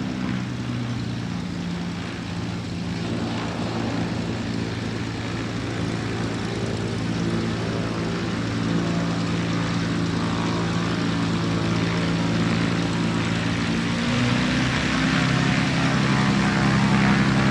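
ATV (quad) engines running at a steady pitch, shifting in pitch about three-quarters of the way through and growing a little louder toward the end.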